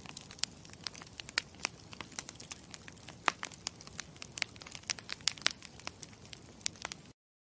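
Campfire crackling: a steady low rustle of flames with many sharp, irregular pops and snaps, cutting off abruptly near the end.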